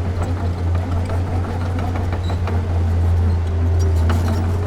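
Diesel engine of a heavy earthmoving machine running steadily, a deep, constant hum, with scattered short clanks and knocks over it.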